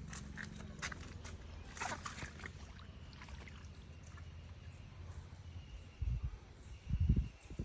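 Faint water sloshing and small splashes from a cast net in the water just after the throw. Two low thumps come near the end.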